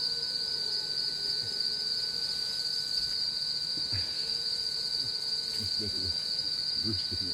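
Steady, unbroken high-pitched insect drone, a continuous shrill trill from cicadas or katydids in cloud forest, with a fainter second steady tone beneath it.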